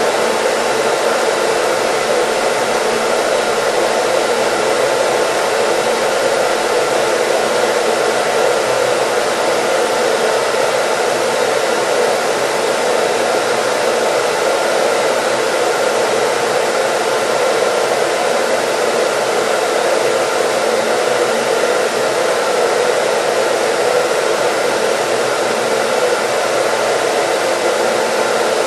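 Hair dryer running steadily: an even, unbroken rush of blown air and motor noise, strongest in the lower middle, with faint steady tones in it.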